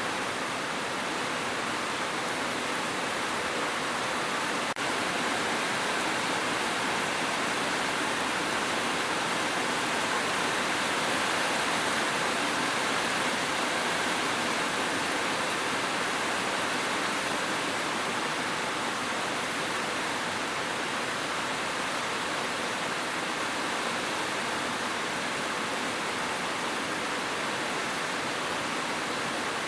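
Steady heavy rain: a dense, even hiss of falling water with no single drops standing out.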